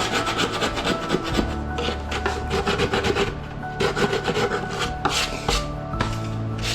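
A hand tool rubbing and rasping over the foam of a deer taxidermy form in many quick back-and-forth strokes, smoothing and shaping the muscle detail.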